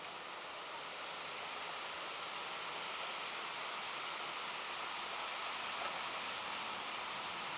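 Steady rain falling, a dense, even hiss with a few faint drop ticks.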